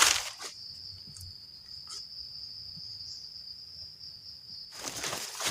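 A cricket chirring in one steady, high-pitched trill. Loud rustling noise masks it at the start and again near the end.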